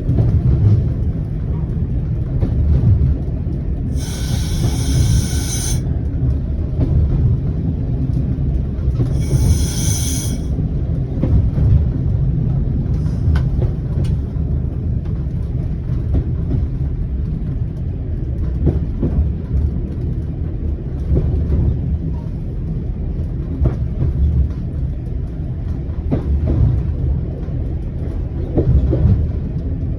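Single-car diesel railcar running along the line, heard from inside: a steady low engine and wheel rumble with scattered clicks from the track. Two short high-pitched tonal sounds stand out, about four and nine seconds in.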